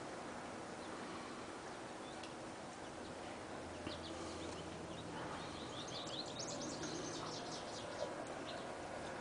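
Songbird chirping in quick short series, mostly in the middle stretch, over faint outdoor background noise and a low hum.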